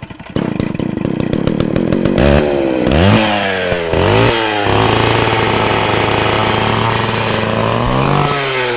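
An engine starts with a fast run of firing pulses, then revs up and down several times. It settles briefly to a steady run and revs again near the end.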